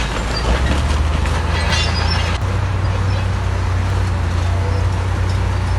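Heavy diesel earthmoving machinery running steadily with a low engine drone, under a continuous grinding and clattering noise of metal and rock.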